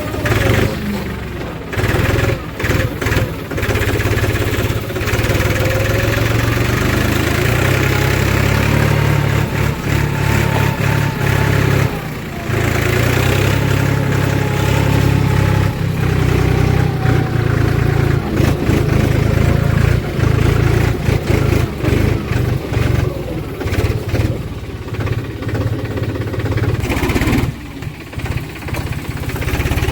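JCB 3DX backhoe loader's diesel engine running under load while digging and loading mud, its revs rising and falling, easing off briefly about twelve seconds in and again near the end.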